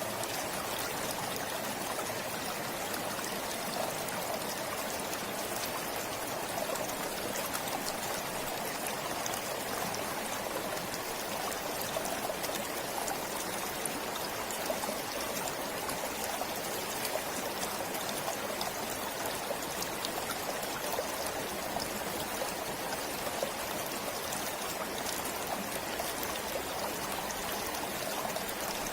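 A forest stream flowing steadily over rocks, with a continuous rush of water.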